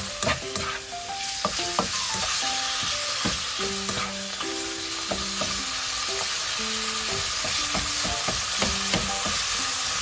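Diced raw chicken breast sizzling in oil in a frying pan, stirred and turned with a spatula that clicks and scrapes against the pan again and again. A light melody of background music plays over it.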